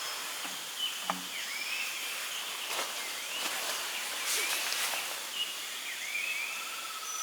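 Forest ambience: a bird giving short chirping calls again and again, roughly once a second, over a steady background hiss, with a few faint ticks.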